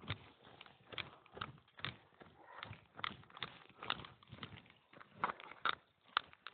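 Footsteps of a hiker walking down a trail, about two steps a second, each step a sharp scuff or knock on the path.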